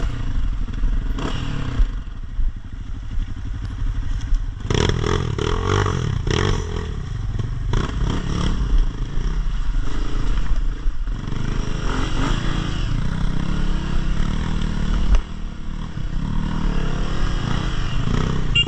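Dirt bike engine running on an off-road ride, with several sharp knocks and clatters in the first half.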